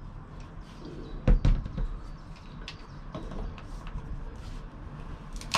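Plastic clicks, scrapes and knocks from working at the tight seal on a plastic tub of engine oil, with a sharp knock about a second in and a sharp crack near the end as the seal gives.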